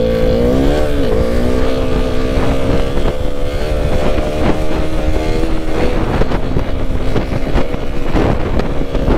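Motorcycle engine running hard at high revs. Its pitch dips and climbs back in the first second, then holds steady, over wind noise.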